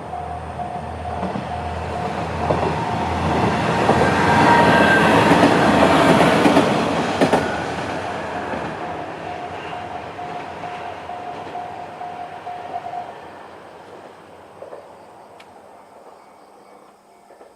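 Two-car KiHa 110 series diesel railcar passing over a level crossing, building to its loudest about five seconds in, then fading as it moves away. The crossing's JR-standard electronic alarm bell rings steadily and cuts off about thirteen seconds in.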